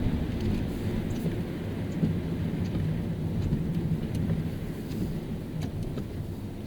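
Car driving on wet roads in the rain: a steady low rumble of tyres and engine, with scattered light ticks of rain.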